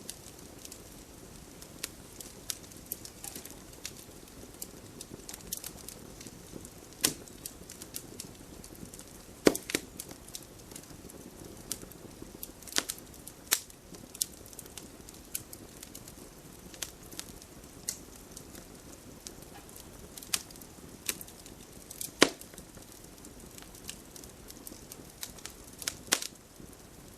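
Campfire burning: the wood crackles and pops irregularly over a low, steady hiss, with a handful of louder sharp pops spread through.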